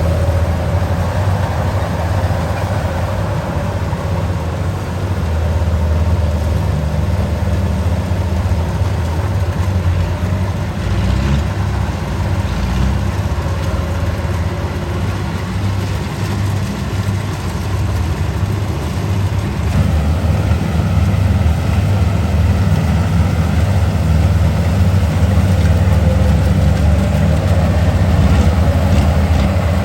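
Kubota combine harvester's diesel engine running steadily: a loud, heavy, low drone, whose tone shifts slightly about two-thirds of the way through.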